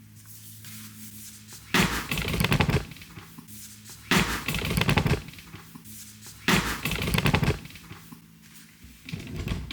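Plastic packaging rustling and crackling as it is handled, in three loud bursts of about a second each and a smaller one near the end, over a faint steady low hum.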